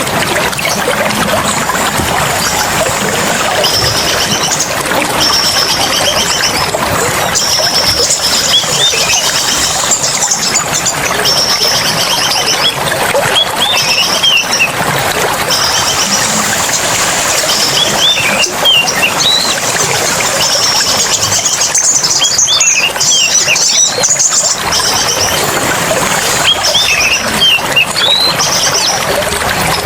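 Several songbirds calling over a steady rush of running water: short buzzy high trills repeated every second or so, mixed with quick rising and falling chirps.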